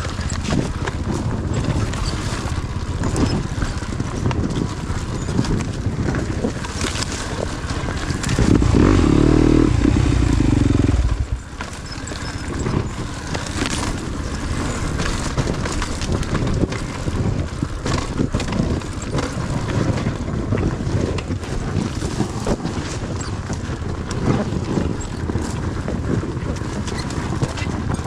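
Yamaha YZ250FX four-stroke single-cylinder dirt bike engine running under varying throttle on a trail, with many short knocks and rattles. About eight seconds in it goes loudest for roughly three seconds, then cuts off sharply as the throttle closes.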